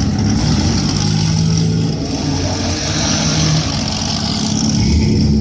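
A car engine running loudly with a low, steady drone.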